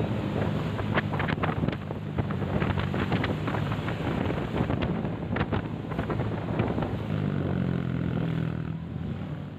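An engine running steadily under heavy wind buffeting and crackling on the microphone, fading down near the end.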